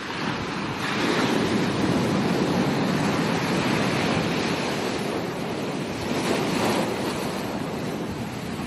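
Ocean waves breaking and washing up a beach: a surge builds about a second in and holds, and a second surge comes around six seconds in.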